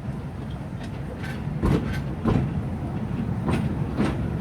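Narrow-gauge forest railway cars rolling along, the wheels clicking over rail joints against a low rumble that grows louder as the train runs on.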